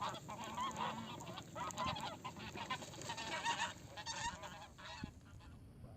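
Geese honking, many calls overlapping, dying away near the end.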